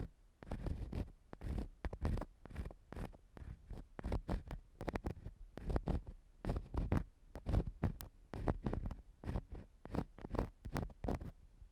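Ear-cleaning ASMR: an ear-cleaning tool scraping and rubbing on the microphone in quick, irregular strokes, a few a second, each with a deep muffled rumble.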